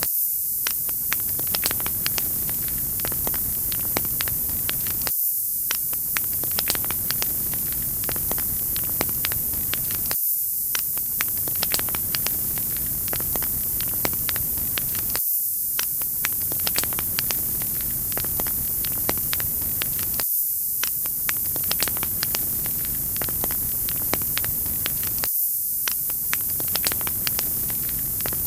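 Wood fire crackling in a fireplace: a steady hiss with many small sharp pops and snaps. The same short stretch repeats about every five seconds.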